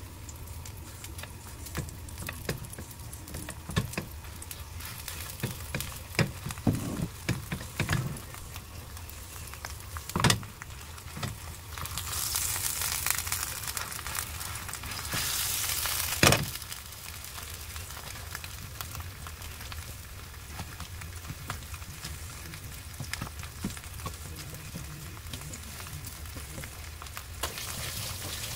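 Batter-coated napa cabbage leaves sizzling in hot oil in a frying pan, with scattered light knocks and taps as the leaves are laid in and pressed flat. Around the middle the sizzle swells louder twice, the second swell ending in a sharp knock.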